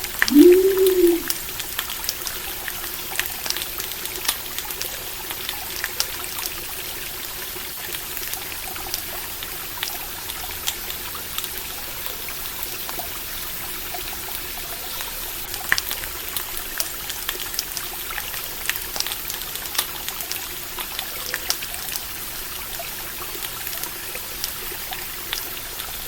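Water trickling and pouring in a stream, with scattered sharp crackles and pops from a campfire throughout. A short, low call that rises and falls in pitch sounds once in the first second.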